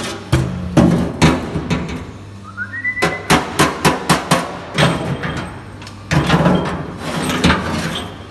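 Sheet-metal work on a motorcycle fuel tank: a series of sharp hammer knocks, including a quick run of about five taps a second in the middle, over a steady electrical hum.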